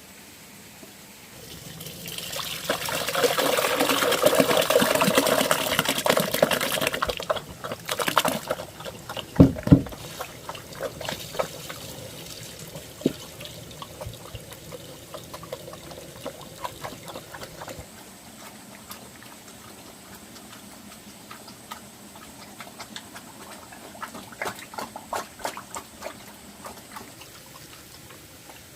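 Water running or being poured in a loud, steady rush for about five seconds. A heavy knock follows, then scattered light clicks and taps of things being handled.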